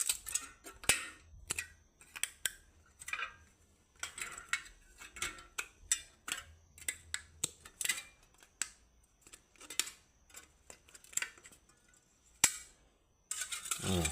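Aluminium beer can being crushed and worked by hand: irregular crinkling clicks and crackles of the thin metal, a few a second, with one sharper snap near the end.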